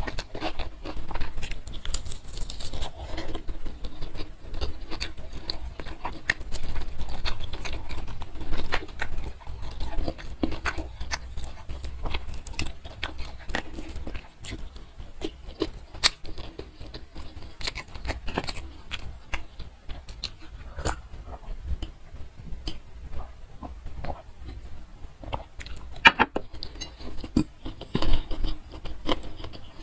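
Close-miked chewing and wet mouth sounds of a person eating rice and green chilli chicken with her fingers: a steady run of small clicks and smacks, with a few sharper ones near the end.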